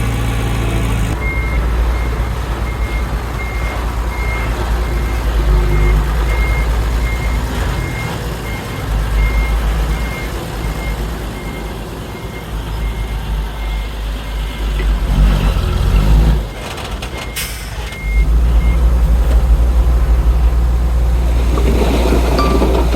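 Reversing alarm on a heavy diesel earthmoving machine beeping evenly, about two beeps a second, over the steady low rumble of its engine; the beeping stops about four-fifths of the way in.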